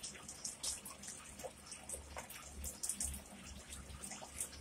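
Close-up chewing of a mouthful of soft stuffed pizza with the mouth closed: faint, wet little clicks and smacks scattered through the chewing.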